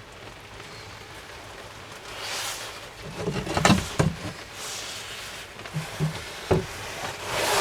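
Heavy rain pattering steadily, with a few short knocks and taps about halfway through and again near the end.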